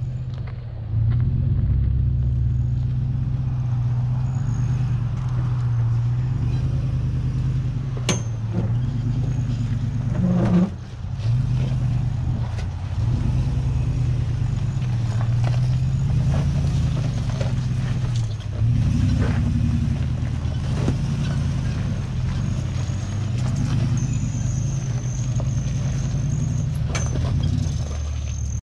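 SUV engine running steadily at low speed on a dirt trail, a low rumble that rises and falls a little, with a few sharp knocks and clicks along the way.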